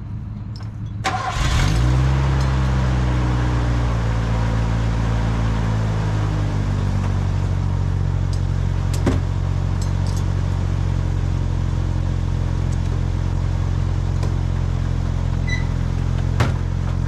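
A 1987 Ford Ranger pickup's engine starts about a second in. Its speed flares up, then settles over a few seconds into a steady idle.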